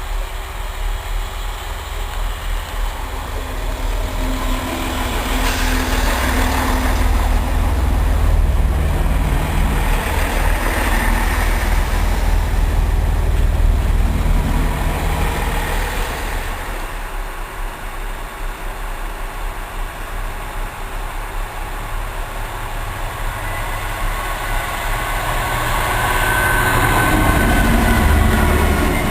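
Diesel train running, a low engine rumble that swells for several seconds, eases off around the middle, and builds again near the end.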